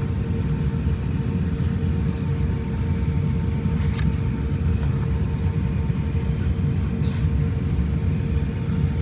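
Steady low rumble of airliner cabin noise aboard an Airbus A350-1000, with a faint steady hum over it.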